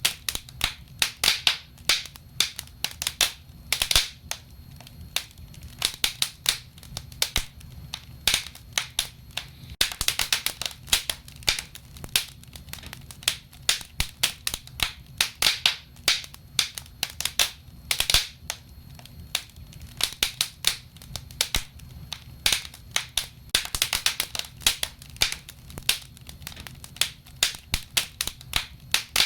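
Wood fire burning in a fireplace: logs crackling with many sharp irregular pops and snaps, in clusters, over a low steady rumble of the flames.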